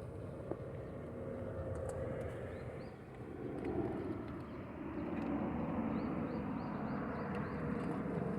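Suzuki GT380's air-cooled two-stroke three-cylinder engine running, its pitch rising and falling with the throttle.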